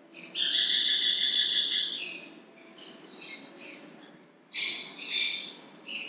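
High-pitched bird calls: a long, loud call held for nearly two seconds near the start, then a string of shorter chirps, and another loud burst of calls about four and a half seconds in.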